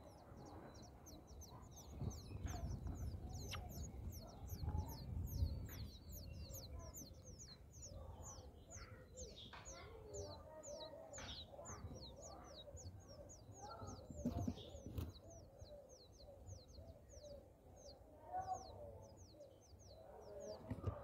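Small birds calling: a high, thin call repeated about four times a second throughout, over soft rustling and low rumbling from the nest.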